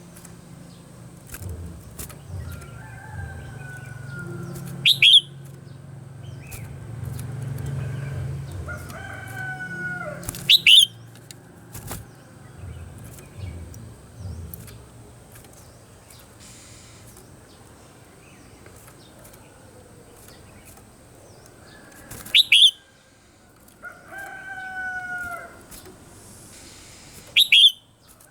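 Red-whiskered bulbul singing: short, loud, sharp whistled phrases repeated four times, with lower falling notes in between.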